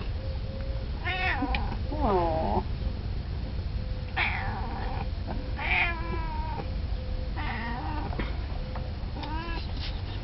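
Domestic cat meowing repeatedly, about six meows, some long and drawn out, as it begs for food.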